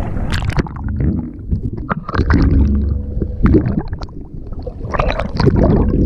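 Water gurgling and sloshing close to the microphone, a heavy low rumble broken by scattered splashes.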